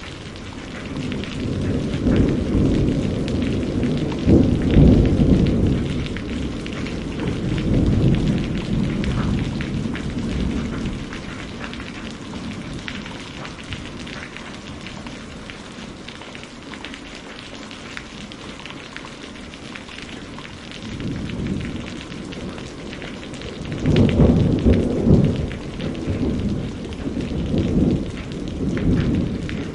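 Steady rain falling with rolling thunder: one long roll of thunder in the first third, a quieter stretch of rain alone, then another long roll near the end.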